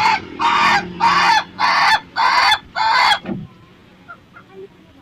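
Ayam ketawa (laughing rooster) crowing its long laughing crow: a quick run of short, loud, evenly spaced syllables, about five in three seconds, that stops a little past three seconds in.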